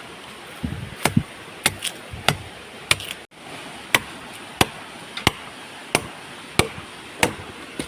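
A blade chopping into the trunk of a small tree, about a dozen sharp strikes at a steady rhythm of roughly one and a half a second, over the steady rush of a waterfall.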